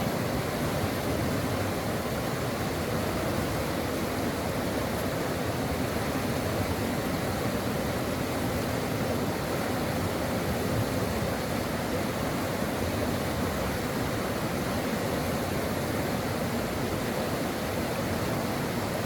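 Stream water flowing, a steady rushing with no breaks or changes.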